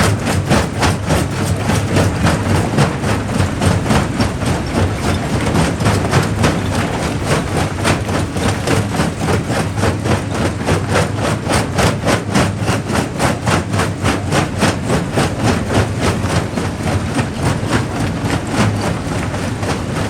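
Jaw rock crusher running, its heavy drive giving a steady rumble with a fast, even pulse several times a second.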